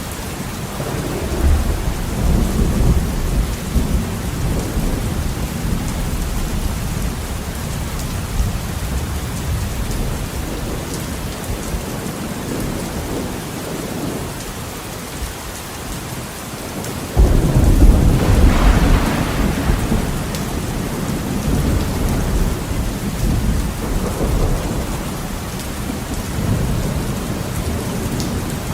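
Heavy rain on a window with steady hiss and patter, under deep thunder: a rumble about a second in, then a louder clap about two-thirds of the way through that breaks suddenly and rolls away.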